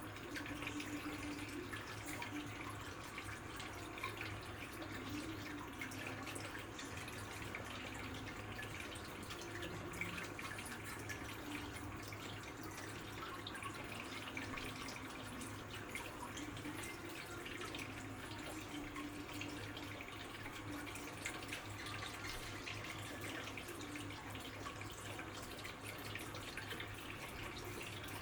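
Water trickling and dripping steadily, with many small splashes, over a steady low hum.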